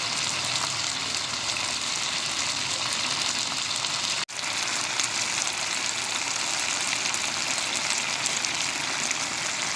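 Chicken sizzling steadily in hot oil, a dense crackling hiss with a brief break about four seconds in.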